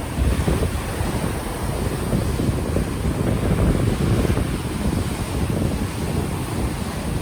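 Ocean waves washing ashore, heavily overlaid by wind buffeting an unshielded microphone, a steady low rumble that rises and falls with the gusts.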